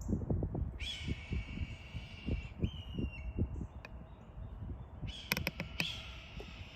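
A bird of prey screeching: a long screech of nearly two seconds about a second in, a shorter one straight after, and another starting near the end with a few sharp clicks, over low irregular thumping.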